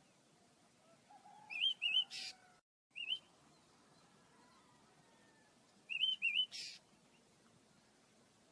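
Small pet birds chirping: two quick wavering chirps and a short harsh note, then another chirp. The same pattern comes again about four seconds later.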